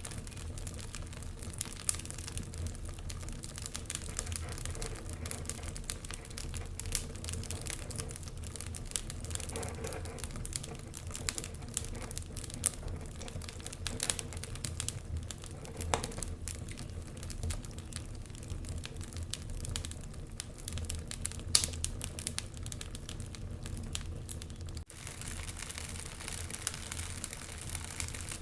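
Wood fire crackling in a fireplace: a steady run of small crackles and occasional sharper pops over a low rumble, with a momentary break about 25 seconds in.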